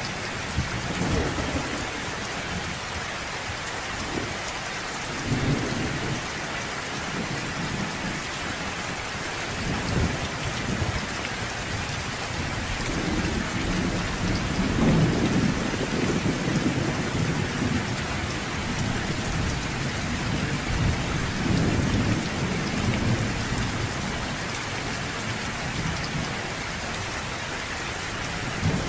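Steady rain falling, with low rolls of thunder rumbling in and out several times; the longest and loudest roll comes about halfway through.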